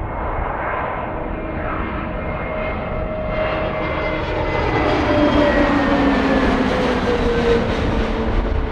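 Jet airliner passing close by: its engine whine grows louder and falls in pitch as it goes past, loudest past the middle.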